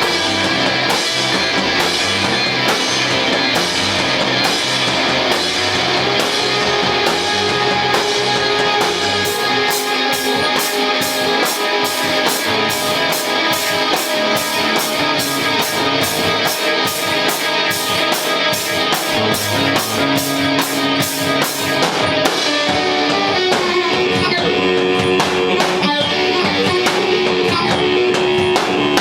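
Live garage rock band playing: electric guitar over a drum kit with steady cymbal strokes. About three-quarters of the way through, the cymbals and drums drop out and the guitar carries on alone.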